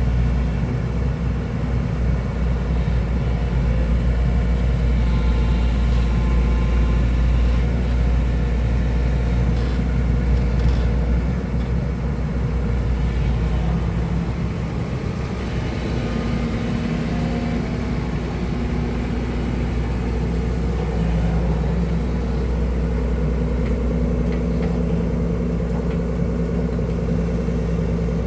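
Excavator's diesel engine running steadily with a deep rumble, its tone shifting slightly about halfway through.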